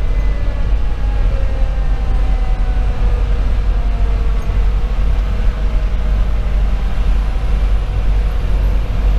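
Inside the cab of a 2010 Pierce Velocity fire engine on the move: a steady low drone from its Detroit Series 60 diesel and the road. In the first half a faint siren tone slowly falls in pitch as it winds down.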